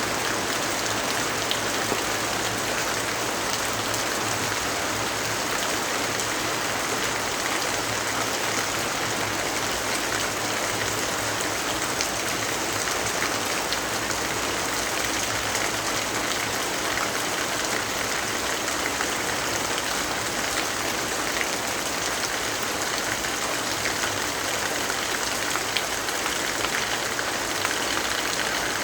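Steady rainfall, an even, unbroken hiss of rain with a faint low rumble underneath.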